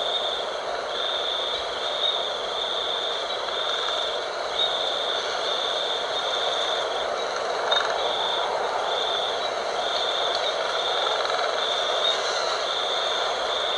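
Steady night wind, with a high, thin trill that pulses on and off about once a second over it.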